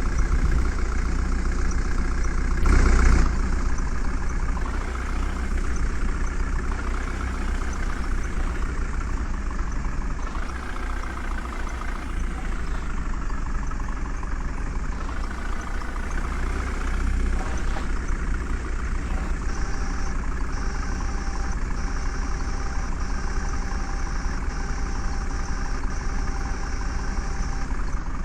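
Heavy diesel engine of a JCB digger running steadily while loading a truck, with one brief loud noise about three seconds in.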